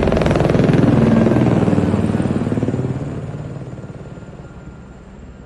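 Helicopter rotor beating with a fast, even chop, loud at first and fading steadily from about three seconds in.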